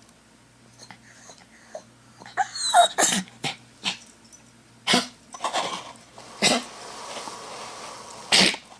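Dog whining, with one high whine falling in pitch about three seconds in and several short, sharp yips or huffs scattered through. It is upset at its owner having left.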